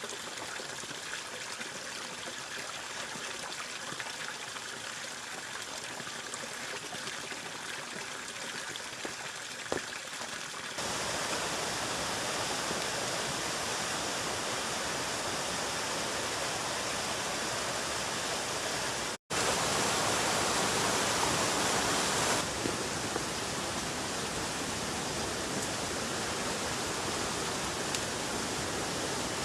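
Steady rushing of water, an even hiss with no distinct drops or strokes. About eleven seconds in it abruptly turns louder and brighter, and after a brief dropout it is louder still for a few seconds before easing back.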